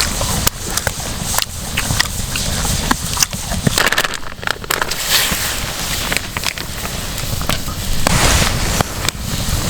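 Wood fire crackling, with many sharp snaps and pops over a low rumbling background.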